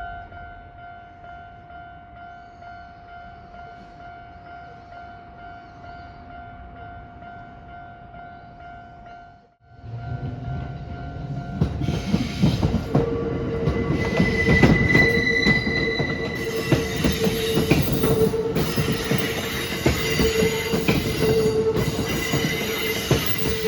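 Level-crossing alarm ringing with a steady, pulsing two-tone signal. After an abrupt cut about ten seconds in, a Kintetsu Ikoma Line electric train passes over the crossing, its wheels clattering loudly over the rails, with a high steady tone above the noise.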